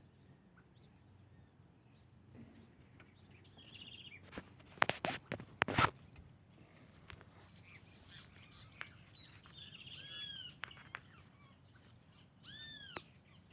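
Wild birds calling in a delta: buzzy trills and a series of arching whistled notes near the end, over a steady thin high whine. A cluster of loud sharp knocks comes about five seconds in.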